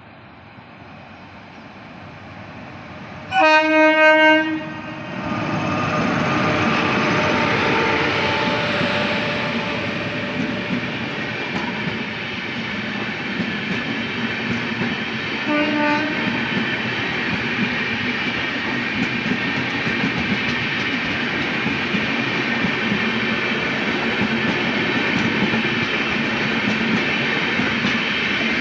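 Express train hauled by an electric locomotive: the rumble of its approach rises, the locomotive sounds its horn in one loud blast of about a second around three seconds in, then the train passes close at speed with a steady rumble and clatter of coach wheels on the rails. A brief second horn toot comes about halfway through.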